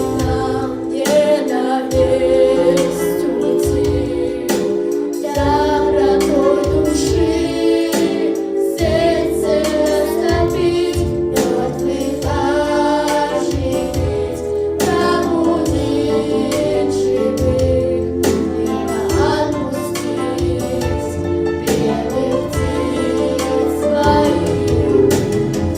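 A song sung over a backing track, the melody wavering above held accompaniment chords.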